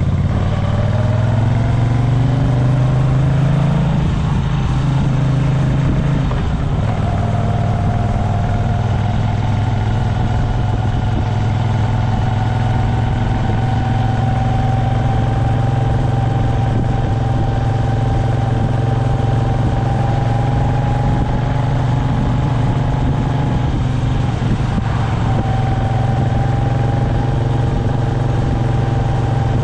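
Moto Guzzi V9 Bobber's air-cooled V-twin running under way. The engine pitch rises over the first few seconds, drops at a gear change around five seconds in, then holds at a fairly steady cruise.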